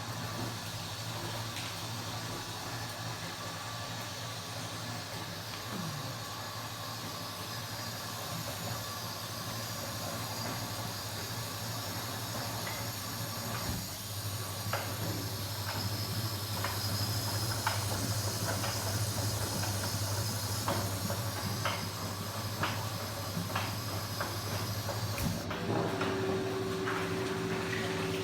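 Kenwood washing machine running through its cycle: a steady motor hum with hiss and scattered clicks. About 25 seconds in the sound changes and a new, higher-pitched hum starts.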